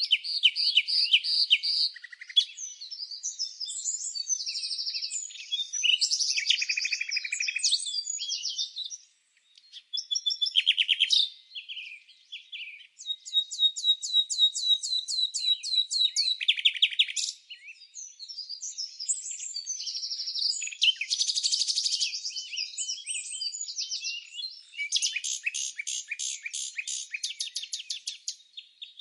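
Songbirds chirping and singing, with quick chirps and fast, rapidly repeated trills; a brief lull comes about nine seconds in.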